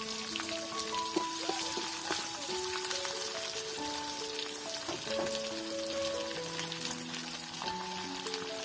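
Sliced onions sizzling in hot oil in a wok, with a steady crackle of many small pops. A simple instrumental melody plays in the background.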